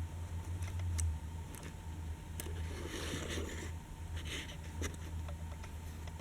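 Die-cast toy trains being handled: scattered small clicks and a brief scrape about three seconds in, over a low steady hum.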